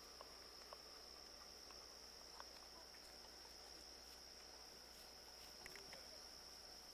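Faint, steady high-pitched trill of crickets with a few soft clicks.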